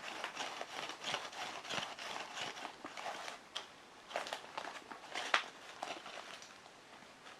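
Nike SuperRep Go 3 Next Nature Flyknit training shoe being bent and twisted by hand: its knit upper and foam midsole rustle and creak faintly and irregularly, with a sharper tick about five seconds in.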